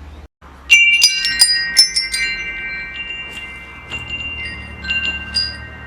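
Metal wind chimes: after a brief silent gap, a quick cluster of strikes about a second in, the tubes ringing on as long, steady tones, then a few scattered strikes near the end.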